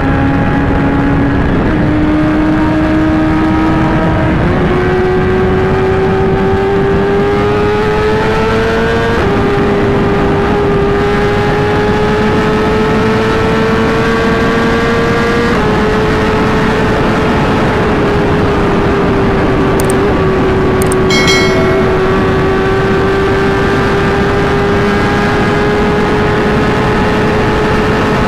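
Inline-four sport-bike engine under way at a steady cruise, its note slowly climbing with a few sudden jumps in pitch, over a constant rush of wind and road noise. A brief high chirp sounds about two-thirds of the way through.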